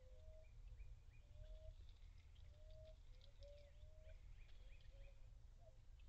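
Faint outdoor ambience: soft, short bird chirps and call notes, repeated irregularly over a low steady rumble.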